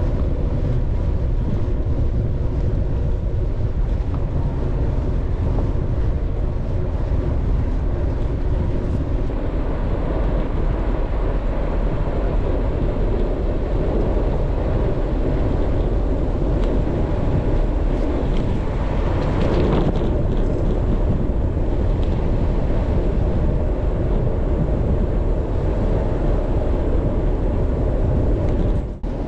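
Steady wind rush on the microphone of a moving bicycle, loud and unbroken, with a brief brighter swell of hiss about twenty seconds in.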